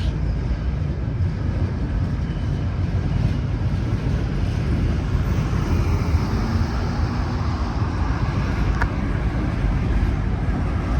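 Freight train rolling past downgrade: a steady rumble of railcar wheels on the rails, with one sharp click about nine seconds in.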